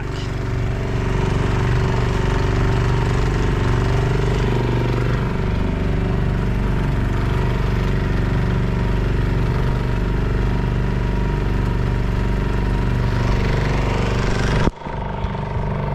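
Small boat's petrol outboard motor running steadily under way, with the rush of water and wind over it. The sound drops out abruptly for a moment near the end.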